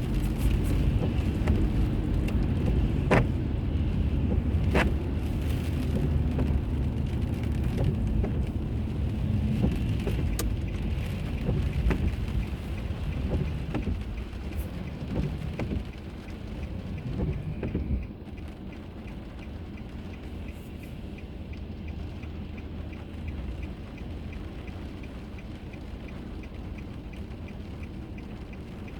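Car road and tyre noise heard from inside the car while driving, a steady low rumble with occasional sharp clicks. About 18 seconds in it drops to a quieter steady hum with faint regular ticking, as the car slows or stops.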